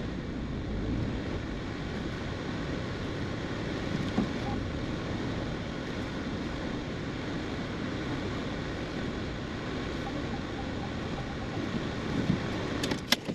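Steady low rumble of a car idling, heard from inside the cabin, with a few sharp clicks near the end.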